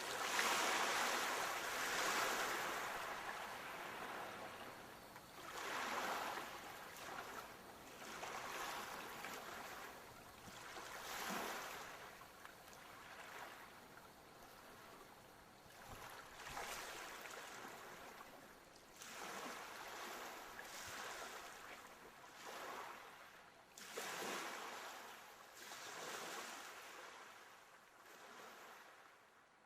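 Sea waves breaking and washing ashore, one surge every two to three seconds, getting quieter toward the end.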